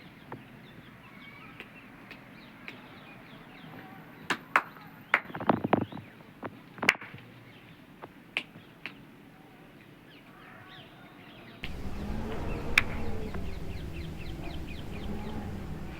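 Birds chirping, with a run of sharp cracks about four to seven seconds in. Near twelve seconds the sound switches abruptly to a louder steady rumble with a low wavering tone under the chirps.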